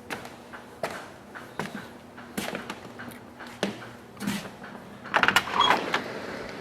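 Footsteps climbing stairs, a step about every three-quarters of a second, then a door rattling and being opened about five seconds in.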